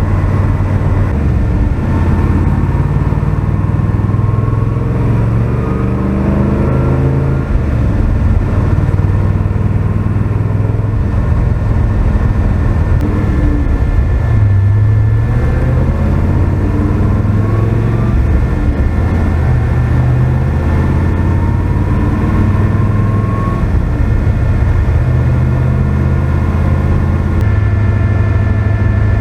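Pickup truck engine under way on the road, its pitch rising several times as it accelerates.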